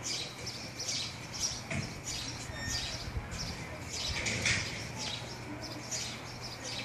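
Small birds chirping over and over, short high calls two or three times a second, over a steady low hum.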